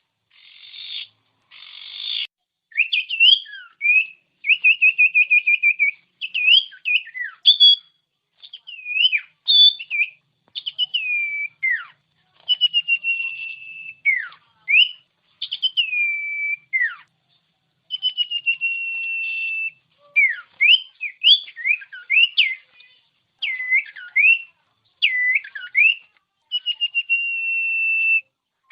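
Common iora singing: a varied run of clear whistled notes that slide up and down, rapid trills and a few long held whistles, in phrases with short pauses. Two short buzzy bursts open it.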